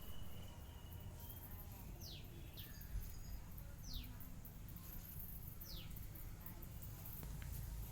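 Faint bird chirps: four short, high calls, each falling quickly in pitch, over a low steady rumble.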